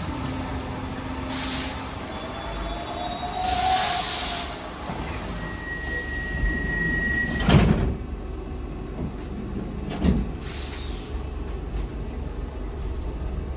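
Stockholm metro train standing at a platform with its sliding doors closing: bursts of air hiss, a steady tone of about two seconds, then the doors shut with a sharp thud, and a second, smaller thump a couple of seconds later.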